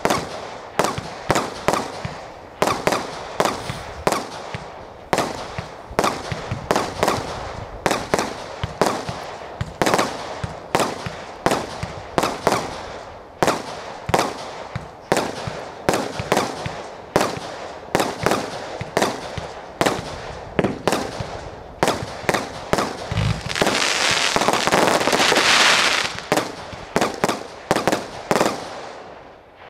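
Tribute firework barrage firing aerial shots in quick succession, about two bangs a second, each with a short echoing tail. Near the end, a louder sustained crackling hiss lasts about two seconds, and then the shots stop abruptly.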